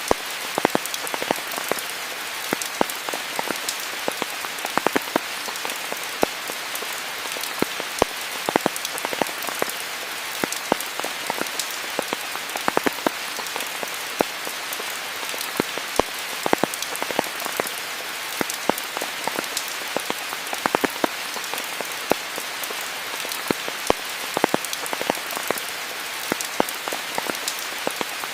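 Steady rain falling, an even hiss with many separate close drops pattering irregularly on surfaces.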